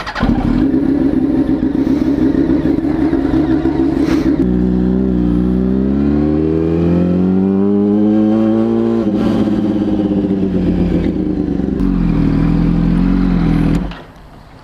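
Yamaha R1 sport bike's inline-four engine running steadily for about four seconds, then revving up through a gear and dropping in pitch at an upshift about nine seconds in, running on at a lower, slowly falling pitch before the sound cuts off near the end.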